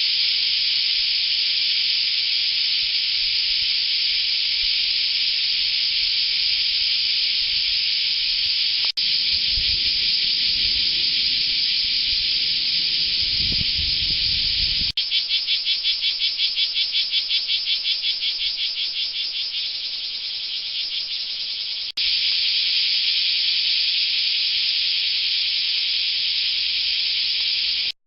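Cicadas singing: a loud, steady, hissing buzz. For a stretch past the middle it pulses several times a second and slowly fades. There is a low rumble under the part just before that, and sharp clicks where the recording is spliced, about a third of the way in, just past halfway and about three quarters through.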